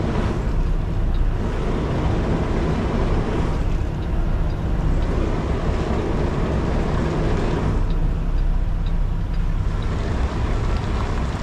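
Kenworth T680 semi truck's diesel engine running at low speed, a steady low rumble, while the tractor-trailer is manoeuvred back into a tight dock.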